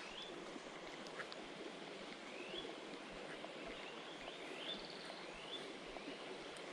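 A bird repeating a short, rising whistled call every second or so, over the steady rushing of a shallow forest stream.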